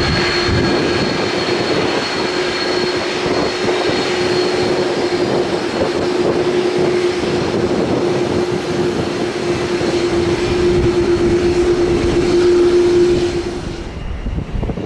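A fixed-wing aircraft's engines running loud and close, a dense steady roar with a steady hum in it. The sound drops away sharply near the end.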